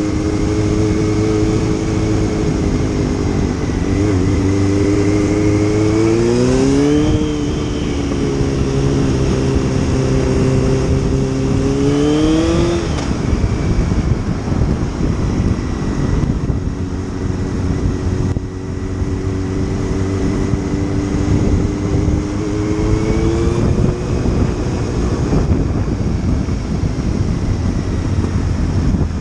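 Motorcycle engine running under way, with a steady rush of noise: the engine note rises and then drops back twice, about seven and thirteen seconds in, as it accelerates through the gears, then holds a steady note with a slight rise near the end.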